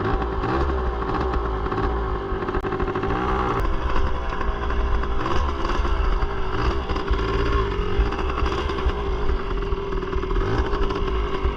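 Small Suzuki pit bike engine running hard, its revs rising and falling several times as the rider works up speed toward the jump.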